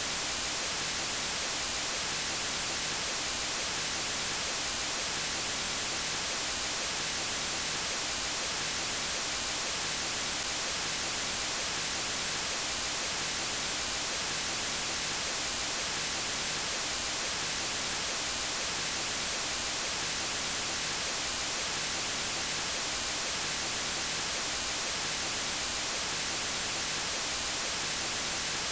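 Steady synthetic white noise, an even hiss across all pitches, brightest in the treble, with no change.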